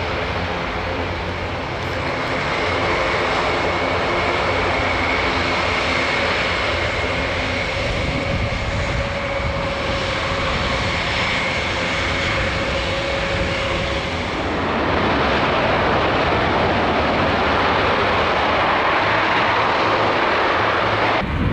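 Airbus A400M's four turboprop engines running with a steady hum of propeller tones. About fourteen seconds in they grow louder and rougher as the power comes up.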